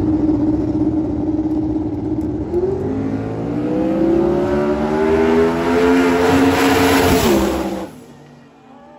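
Drag racing car engine at full throttle, loud, holding a steady pitch for a couple of seconds and then climbing steadily in pitch as the car runs down the strip, before cutting off sharply near the end.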